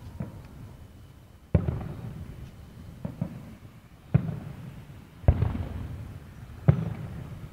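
Aerial fireworks bursting: four sharp bangs, each followed by a low echo that dies away over about a second, and a fainter pop about three seconds in.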